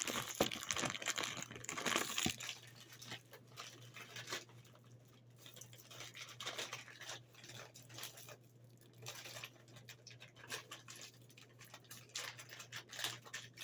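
Snack packaging crinkling and rustling as it is handled, heaviest in the first couple of seconds, then scattered light rustles and taps. A steady low hum runs underneath.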